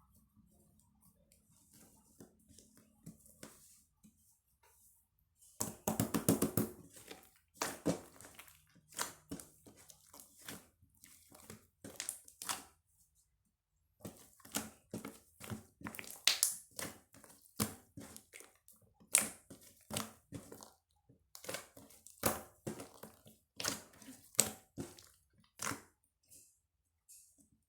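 Close handling noise: irregular sharp clicks, taps and crackles, like small objects or packaging being handled, starting about five seconds in after a quiet faint hum.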